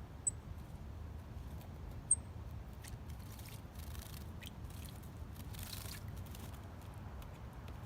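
Faint background noise with a steady low rumble and scattered soft clicks, broken by two brief high chirps, one right at the start and one about two seconds in.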